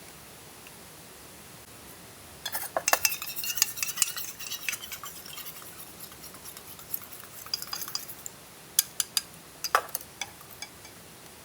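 Utensils clinking and scraping against cookware or dishes during camp cooking. A quick busy flurry of clinks starts about two and a half seconds in, then thins to scattered small clicks. A few sharp single clinks follow near the end.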